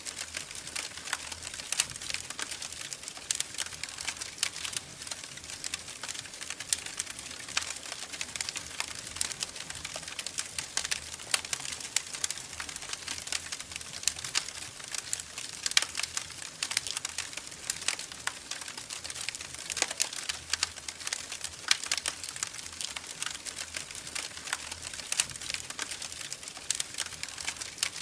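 Wood fire burning in a fireplace, crackling steadily with many irregular sharp pops and snaps over a soft hiss.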